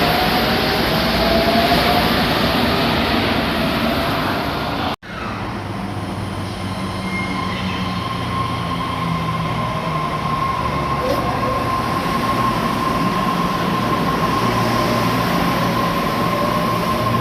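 Electric train running, with a steady whine over the rumble of its running gear; the sound cuts out abruptly for an instant about five seconds in.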